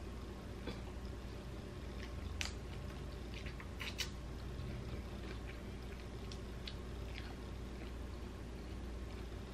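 A person chewing food with scattered small wet mouth clicks and smacks, the sharpest about two and a half and four seconds in, over a steady low hum.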